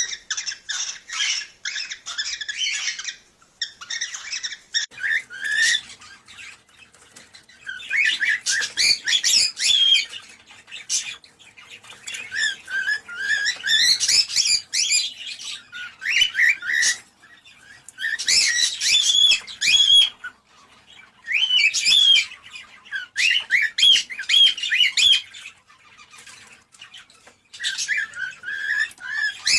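Cockatiels chattering and warbling in bouts of a few seconds with short pauses between: the mating-stimulation song of cockatiels.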